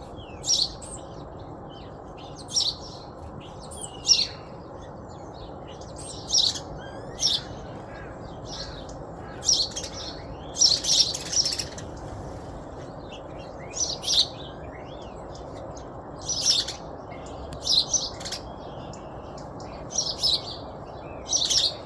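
Small birds chirping: short, high chirps every second or two, some in quick pairs, over a steady low rushing noise.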